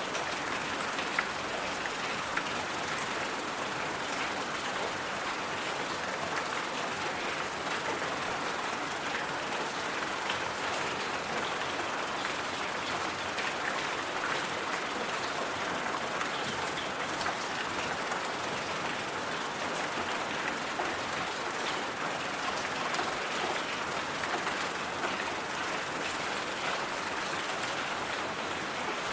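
Steady ambient hiss, even and unbroken, with faint scattered ticks through it.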